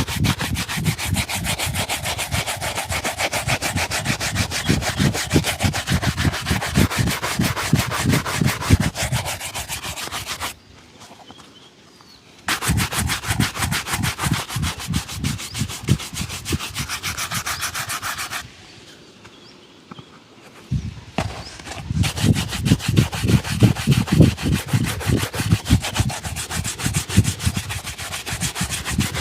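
A leather shoe being buffed with rapid back-and-forth strokes, in three bouts with short pauses between them.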